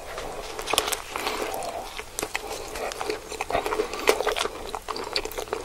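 Close-up eating sounds of a hot dog in a soft bun being bitten and chewed, with a dense run of sharp mouth clicks.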